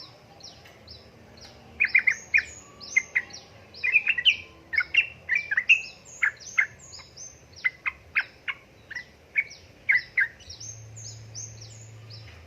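Yellow-vented bulbul (trucukan) calling: a quick, irregular run of short, sharp chirps and falling whistled notes, densest in the middle and thinning out near the end.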